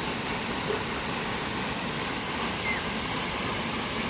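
Steady, even rushing noise with no distinct strokes or tones.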